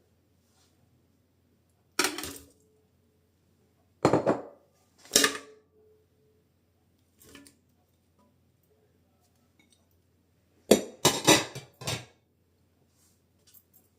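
Kitchen utensils and dishes clattering: scattered separate knocks and clinks, with a quick run of several near the end.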